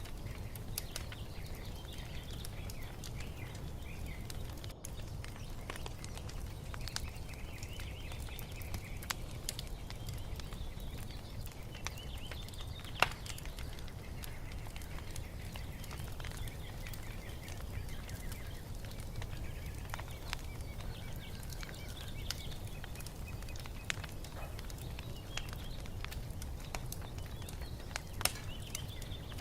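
Wood fire crackling with scattered sharp pops, the loudest about halfway through, over a low steady rumble, while small birds chirp and twitter throughout.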